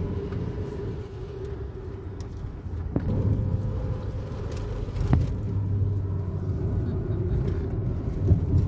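Steady low rumble of a car driving on the road, with two sharp knocks about three and five seconds in.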